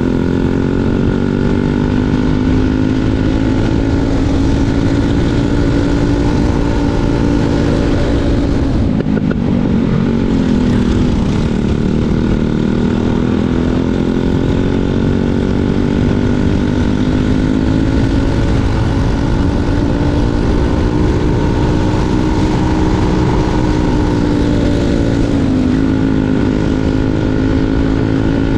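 Briggs & Stratton 206 Super Stock four-stroke single-cylinder kart engine running at racing revs on track. Its pitch drops about nine seconds in and climbs again over the next couple of seconds, with a shorter dip and recovery near the end, as the kart slows for corners and accelerates out.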